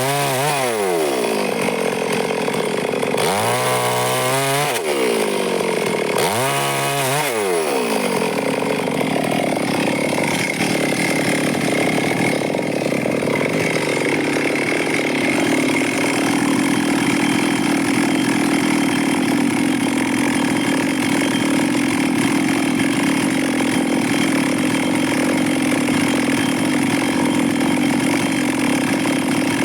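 Stihl two-stroke chainsaw revving up and down three times in the first several seconds, then running steadily at high speed, cutting through wood under load.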